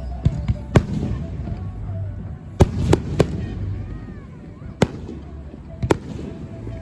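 Fireworks display: a string of sharp bangs from bursting aerial shells, about seven in all, some in quick succession, over a low continuous rumble.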